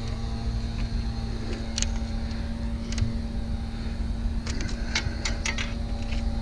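Scattered light clicks and clinks of small metal parts being handled, over a steady low rumble with a hum.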